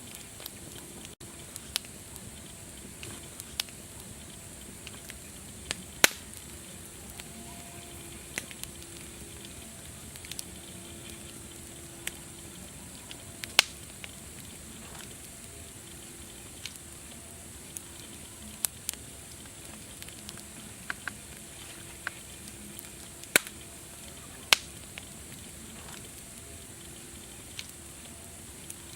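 Wood fire crackling: irregular sharp pops and snaps, a few much louder than the rest, over a steady hiss.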